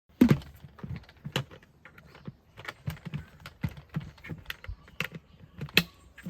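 Irregular clatter of small hard objects being handled: a string of clicks and knocks, the sharpest about a quarter second in and another near the end.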